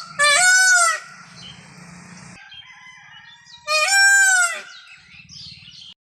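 Rooster crowing twice: two loud, short crows about three and a half seconds apart, each rising then falling, with a faint low hum between them.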